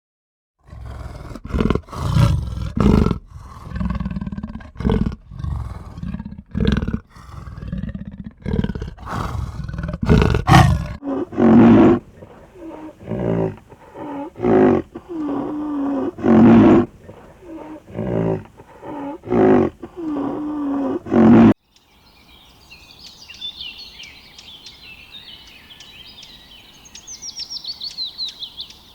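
Lion growling and roaring in a series of loud bouts, which cut off suddenly about three-quarters of the way through; after that, small birds chirp faintly.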